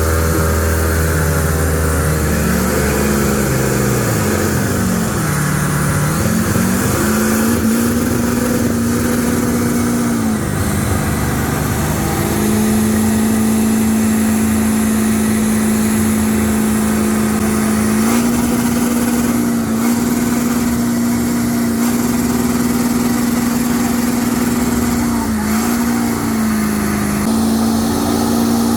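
An engine revved and then held at high, steady revs for long stretches, its pitch dropping and recovering briefly a few times.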